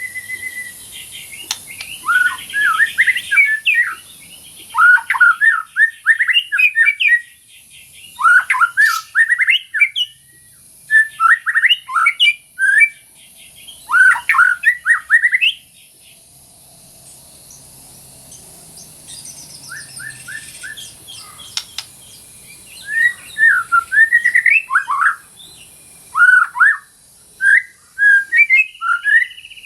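White-rumped shama (murai batu) singing loud, varied phrases of whistles and trills in bursts of a second or two, with a pause of several seconds in the middle before the song resumes.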